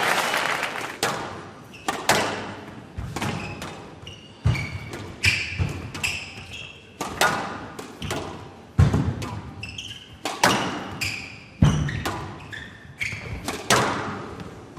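Squash rally: the ball struck by rackets and smacking off the court walls, sharp knocks about one to two a second, each ringing briefly in the hall, with short high squeaks between them. Applause from the previous rally fades out at the start.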